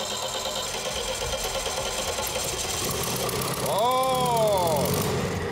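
Four-cylinder petrol engine with ringless pistons, just started and running with a fast, even pulse; it is running very quietly, which the mechanics find suspicious. About four seconds in a man's voice gives a short rising-and-falling exclamation, and the engine dies away near the end.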